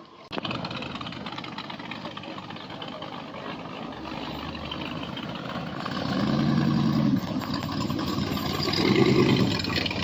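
A car engine running at a steady idle, growing louder twice: once about six seconds in and again about nine seconds in.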